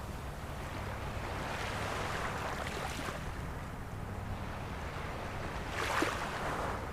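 Ocean waves washing ashore in a steady surf wash, with one wave breaking more sharply about six seconds in. A steady low rumble runs underneath.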